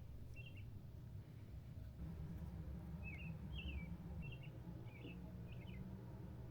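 A small bird chirping: short, wavering high notes, one early and then a quick run of about six, roughly half a second apart, starting about three seconds in. Under it sits a faint steady low rumble.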